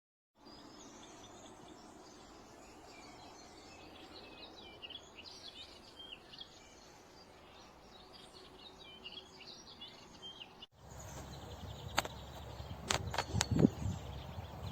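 Faint outdoor ambience with small birds chirping in the background. After a cut about eleven seconds in, the ambience changes and a few louder clicks and knocks are heard.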